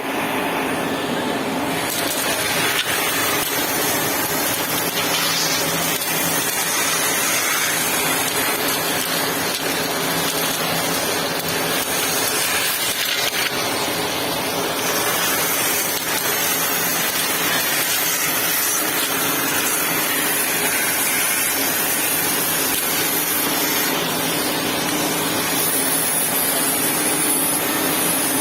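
Delfin DM3 vacuum cleaner running steadily, an even motor-and-airflow noise with a faint hum.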